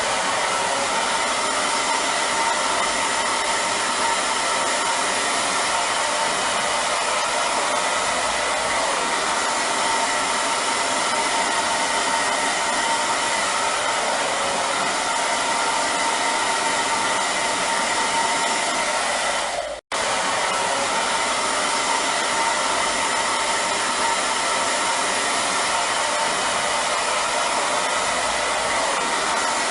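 Hair dryer running steadily: an even rush of blown air with a faint steady motor whine. About twenty seconds in it cuts out for a split second and comes straight back.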